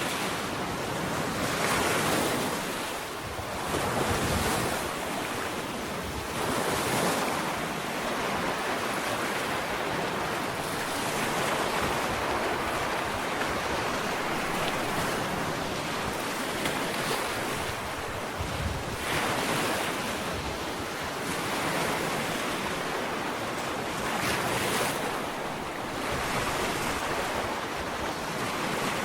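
Ocean waves breaking and washing up a sandy beach, a steady surf hiss that swells and falls with each wave.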